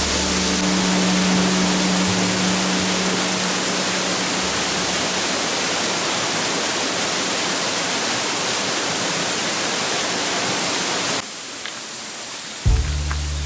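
Steady rush of a waterfall with low background music notes under it. The rush drops abruptly about eleven seconds in to a quieter water sound, and the music comes back near the end.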